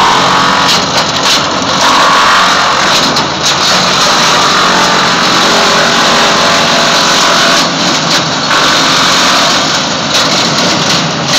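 Wood chipper running loudly and steadily, a dense engine-and-machine noise with no letup.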